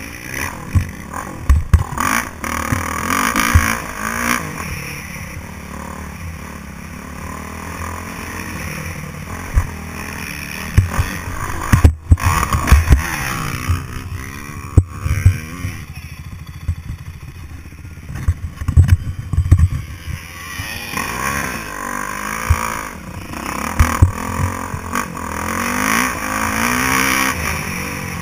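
Motocross motorcycle engine revving up and down over and over, with irregular heavy thumps and knocks throughout.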